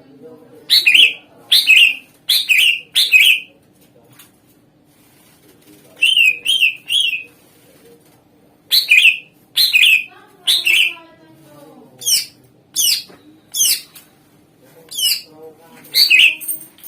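Cucak ijo (greater green leafbird) singing: loud, short, sharp notes that each sweep down in pitch, repeated in quick runs of three or four with short pauses between.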